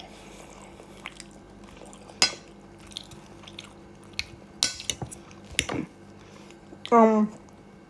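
Cutlery clinking and scraping on a plate, with chewing, during a meal: a handful of sharp clicks spread out, then a short pitched sound, falling slightly, near the end.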